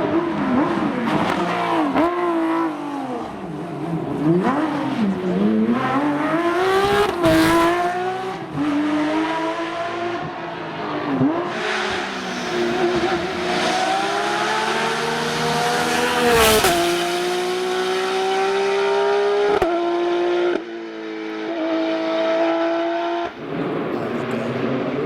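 Porsche rally car's flat-six engine, revved hard and let off repeatedly, its pitch climbing and dropping through the gears. There are several sudden breaks in pitch late on.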